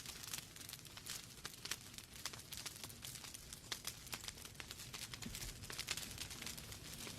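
Wood fire burning in a fireplace: logs crackling with many quick, irregular pops over a soft hiss and low rumble of the flames.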